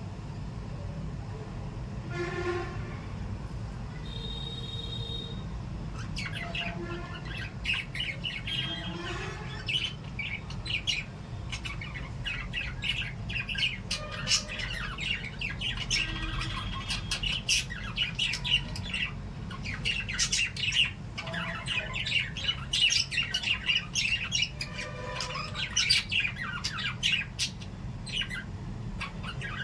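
A group of small pet parrots chirping. The calls are sparse at first and become a dense run of quick, short chirps from about six seconds in, over a steady low hum.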